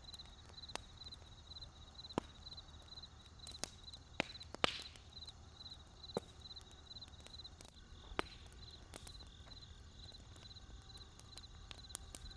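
Wood campfire crackling with scattered sharp pops, the loudest about halfway through, over a low rumble. A high, even chirping repeats in the background.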